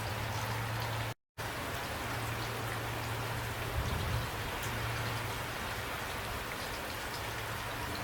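Steady rain falling, an even hiss of drops, over a low steady hum. The sound cuts out completely for a split second about a second in.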